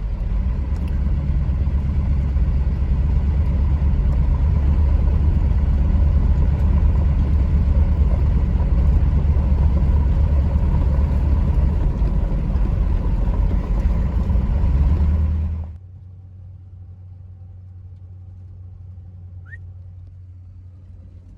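Vehicle driving on the road, a steady low engine and road rumble. About sixteen seconds in it drops suddenly to a much quieter steady hum.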